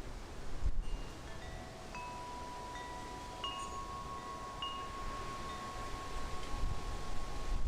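Wind chimes sounding in the breeze: a handful of separate struck notes, each ringing on for several seconds, over a low rumble of wind on the microphone.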